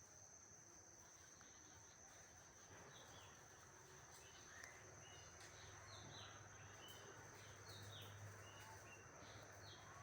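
Faint natural ambience: a steady high insect drone, with a bird's short falling chirps repeating from about three seconds in.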